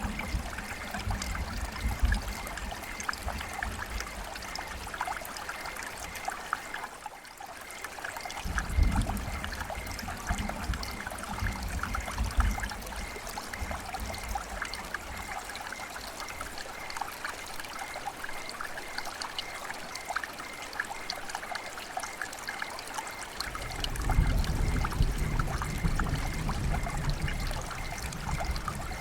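River water flowing and trickling steadily, a constant fine splashing hiss. A deeper low rumble swells in three times, near the start, from about nine seconds in and again near the end.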